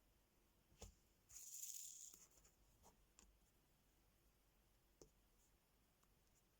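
Faint, close handling sounds of a diamond art sticker kit: a sharp click a little under a second in, a brief scratchy rustle, then a few soft, spaced clicks.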